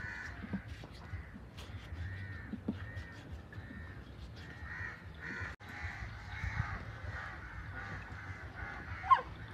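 Birds calling over and over, harsh caw-like calls overlapping about twice a second, with one louder call falling in pitch near the end.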